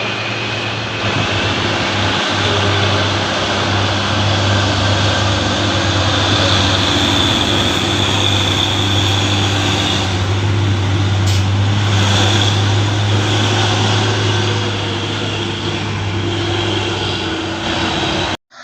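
Heavy truck's diesel engine running with a strong, steady low hum over road noise, growing louder about a second in and easing a little near the end, then cutting off suddenly just before the end.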